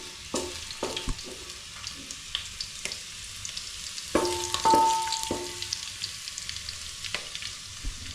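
Food sizzling in hot cooking oil in a pan while it is stirred with a spoon, which clicks and scrapes against the pan. About four seconds in, a louder scrape rings briefly against the metal.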